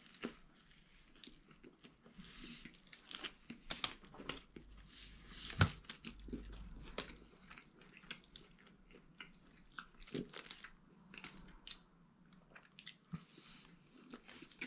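A person chewing a mouthful of a sub sandwich close to the microphone: wet mouth clicks and soft crunches, with one louder knock a little before halfway.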